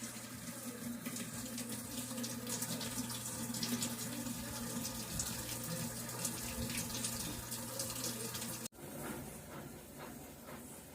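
Water running in a Brastemp washing machine, with a steady low hum from the machine under it. About three-quarters of the way through the sound cuts off sharply and a patchier rush of water with faint ticks follows.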